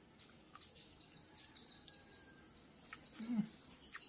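Chewing on crispy charcoal-grilled quail, with a few sharp crunches, the loudest about three seconds in, next to a short low murmur. Birds chirp faintly in the background.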